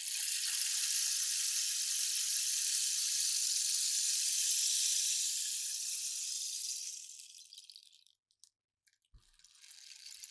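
Rainstick being tipped: a steady, rain-like hiss of small pebbles trickling down through it, which thins out and stops about eight seconds in. After a brief silence and a soft knock, the stick is turned over and the pour starts again near the end.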